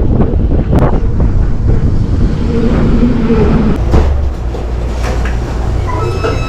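Wind buffeting the microphone over road and tyre noise while riding an electric motorcycle, with no engine sound. The rumble eases a little partway through, and a short electronic tone sounds near the end.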